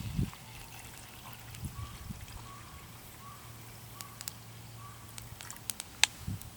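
A thin trickle of liquid, with a few sharp crackles between about four and six seconds in.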